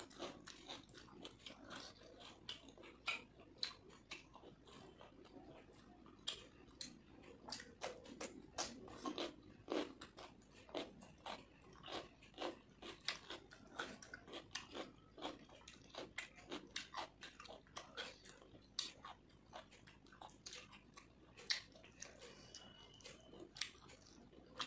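A person chewing and smacking their lips while eating rice and chicken curry by hand: many short, irregular mouth clicks and smacks.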